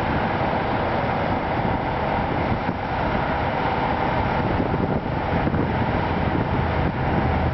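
Cat C15 diesel engine of a Peterbilt heavy-haul tractor running steadily.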